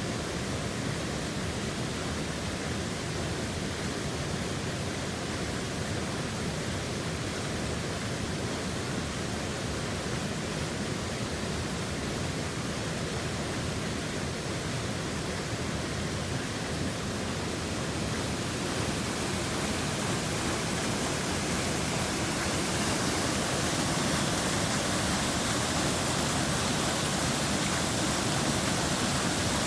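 Steady rush of a waterfall, an even hiss of falling water that grows a little louder and brighter about two-thirds of the way through.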